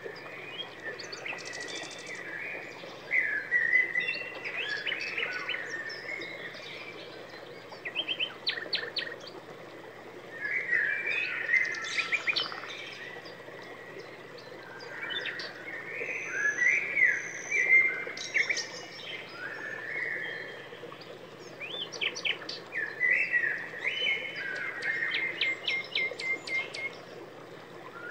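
Small birds chirping and singing, many short calls, gliding whistles and quick trills overlapping in clusters, over a faint steady low hum.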